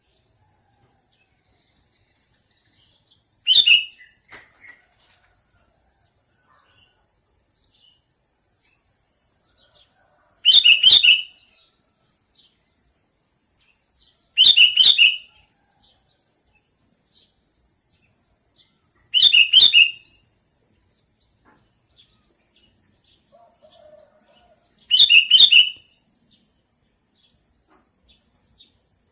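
Sooty-headed bulbul (kutilang) calling in short, quick phrases: five loud bursts each under a second, spaced about four to six seconds apart, with faint chirps between them.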